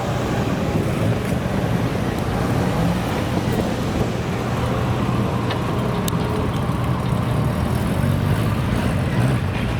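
A car engine running steadily with road-traffic noise, with no revving.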